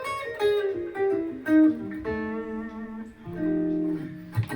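Gibson ES-335 semi-hollow electric guitar played on its neck pickup: a jazz line of single notes stepping downward, then two held chords.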